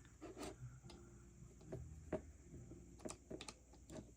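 Faint, scattered light taps and clicks, about eight of them at uneven intervals, from a paintbrush working in a watercolour palette while two paint colours are mixed.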